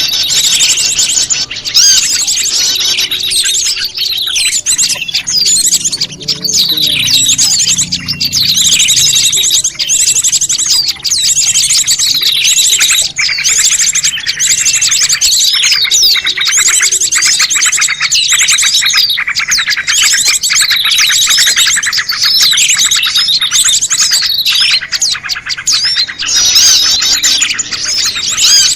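Bird-lure recording of a prenjak lumut mixed with a chorus of other small songbirds: fast, high chirps and rapid trills overlapping without a break. It is a lure call, meant to draw wild prenjak lumut in.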